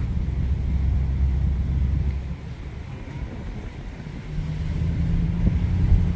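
A car engine running with a low rumble, a steady low hum coming in about four seconds in as it grows louder toward the end.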